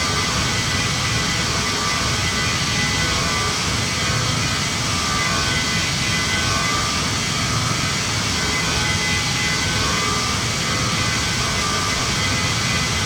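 Steady jet cabin noise inside a Boeing 737 MAX 9 in flight: an even rush of engine and airflow noise from its CFM LEAP-1B turbofans, with faint steady whining tones on top.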